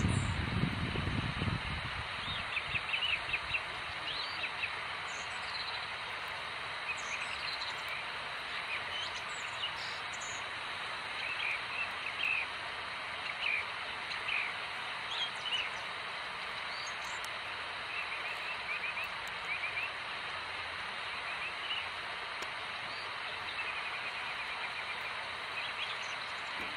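Small birds chirping in short, scattered calls over a steady outdoor background hiss, with a low rumble in the first second or two.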